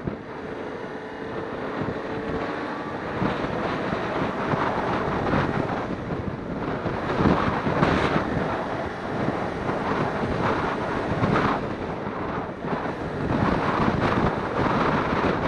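Wind buffeting the microphone on a moving Suzuki Inazuma 250, with the bike's parallel-twin engine running steadily underneath; the rush grows a little louder a few seconds in.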